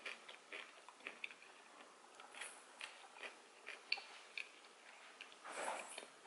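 Soft mouth sounds of someone chewing pizza: small wet clicks and smacks scattered throughout, with a louder, noisy rush about five and a half seconds in.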